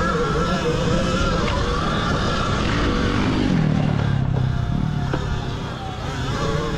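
Zero XB electric dirt bike riding through sand: its motor whines over a heavy rumble of wind and trail noise. The whine drops in pitch about halfway through as the bike slows, then holds steady.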